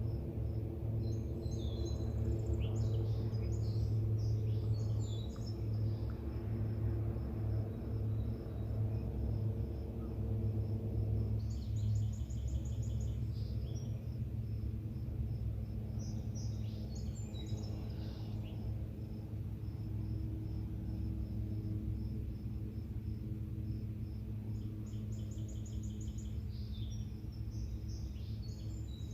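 Songbirds singing outdoors in several separate phrases, including a fast trill, over a steady, evenly pulsed insect chirping. Underneath runs a steady low hum.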